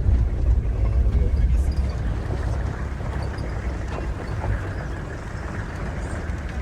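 Vehicle driving on a rough road: a steady low rumble of engine and tyres that eases slightly toward the end.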